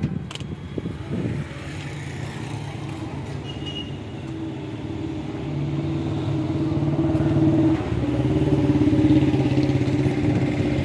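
Tractor engine running steadily at a low, even pitch, getting louder about halfway through and again near the end.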